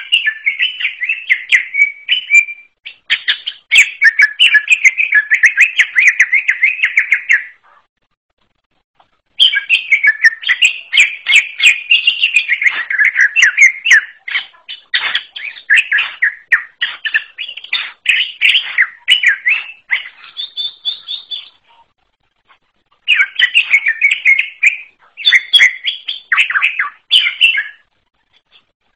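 Green leafbird (cucak ijo) singing a fast, chattering, warbling song in long runs, with short breaks about 8 and 22 seconds in.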